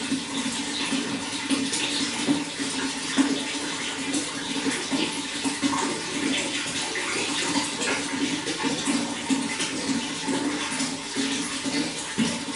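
Running water, a steady flow with fine irregular splashing.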